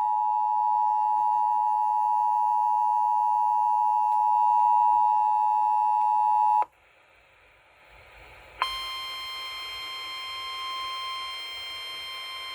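Emergency Alert System attention signal announcing a severe thunderstorm warning on the radio: a loud, steady two-tone alarm that cuts off suddenly about six and a half seconds in. After two seconds of faint hiss, a quieter single steady alert tone starts and holds.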